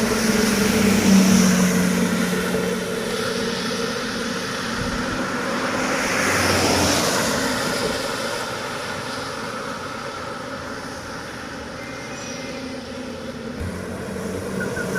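Heavy truck engines droning as they labour up a steep grade. A vehicle swells past about six to seven seconds in; the sound dips a little after eleven seconds and rises again near the end.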